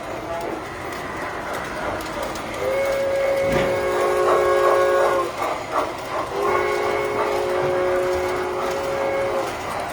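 Model train whistle on a tinplate toy train layout sounding two long blasts, each a steady chord of a few notes, over the constant running noise of trains on the track.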